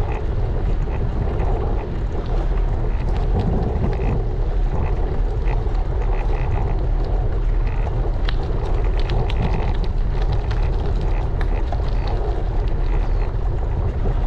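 Wind buffeting a GoPro camera's microphone while cycling: a steady, heavy rumble with scattered small clicks and ticks from the ride.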